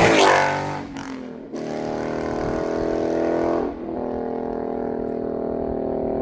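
2015 Ford Mustang GT's 5.0 V8 through a Roush cat-back exhaust, its pitch falling off a pull over the first second, then dipping briefly before settling into a steady exhaust drone that softens a little past halfway.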